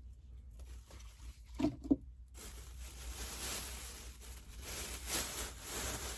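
Two short knocks, then a long stretch of rustling and handling noise as cooking things are moved about and searched through.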